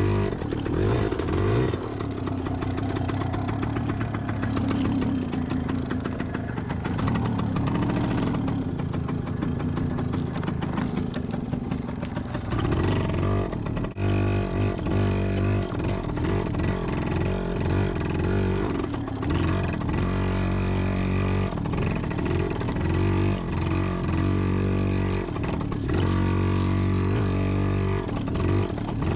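Yamaha PW80 dirt bike's small two-stroke single-cylinder engine running hard, its pitch rising and falling many times as the throttle is opened and eased off.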